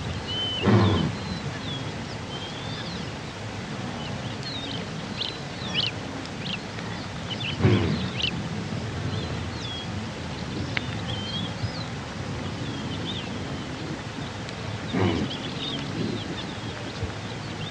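Gazelle giving three short calls, each under a second, spaced about seven seconds apart. Small birds chirp steadily in the background.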